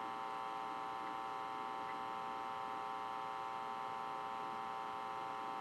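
A steady electronic hum made of several even tones, from the live launch webcast's audio played through a phone speaker between the announcer's callouts.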